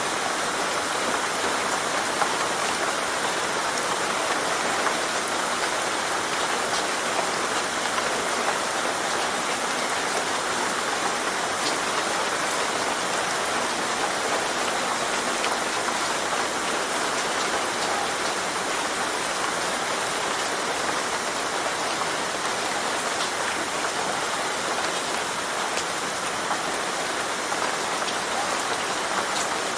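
Steady rain falling, an even hiss of rain on a surface with a few faint scattered drop ticks.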